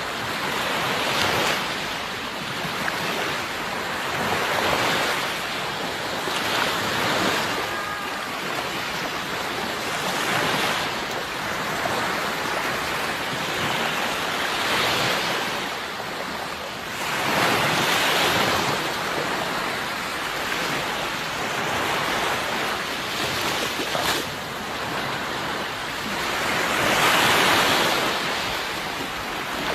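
Sea surf washing on a shore: a continuous rush of waves that swells and eases every few seconds, with the biggest surges about two-thirds of the way in and near the end.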